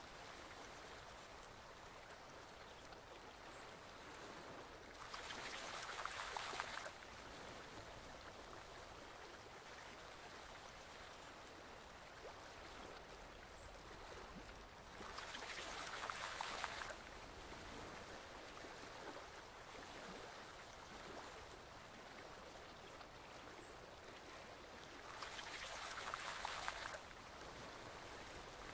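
A forest stream flowing with a steady, faint rush of water. Three times, about ten seconds apart, it swells louder and brighter for about two seconds.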